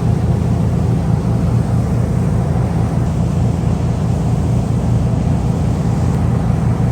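Jet boat under way, its engine running with a steady low drone under a constant rushing hiss of water and air.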